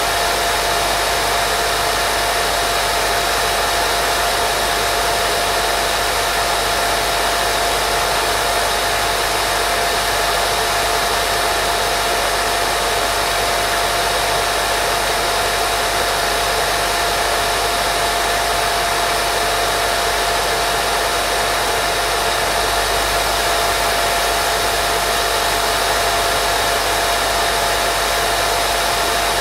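Continuous white noise for baby sleep: an even, unchanging hiss with a thin steady tone running through it and a faint low rumble underneath.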